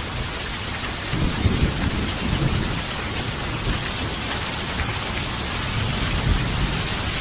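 Steady heavy rain with rolling thunder: low rumbling swells about a second in, lasts a couple of seconds, and comes back briefly near the end.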